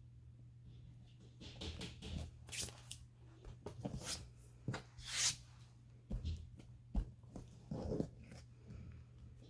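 Paper and craft supplies being handled on a work table: scattered short rustles, taps and scrapes, over a low steady hum.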